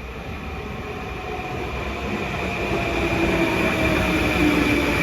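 LIRR M9 electric multiple-unit train pulling into the station, growing steadily louder, its motor tones sliding down in pitch as it slows, over a steady high whine.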